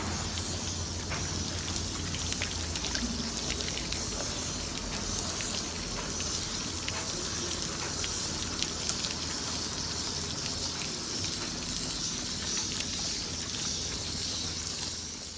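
Water spraying and pattering steadily on a surface, a hiss with scattered small ticks of drops and a faint low hum underneath.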